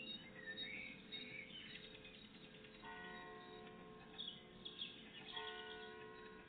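Songbirds singing in short warbling phrases and chips, with a bell tolling, each stroke ringing on with several steady tones and a new one about every two and a half seconds.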